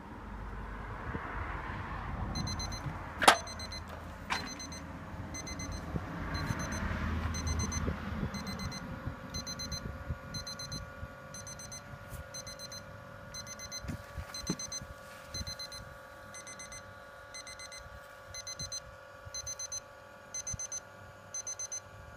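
Electronic beeper sounding an alarm: quick high-pitched trains of pips repeating about once a second, starting about two seconds in. A sharp knock about three seconds in is the loudest sound, with a steady hum underneath from about four seconds on.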